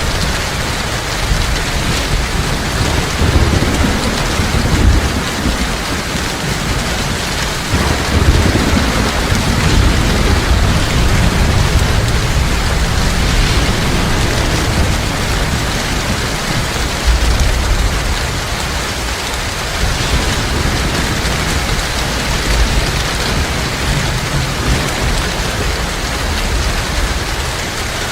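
Steady heavy rain pattering densely on a surface, with deep rolls of thunder rumbling underneath that swell and fade several times.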